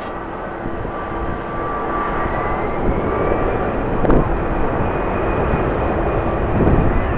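Jet airliner engines running with a steady whine, one tone rising gently about two seconds in, over a rushing noise. A gusty low rumble of strong wind on the microphone runs underneath.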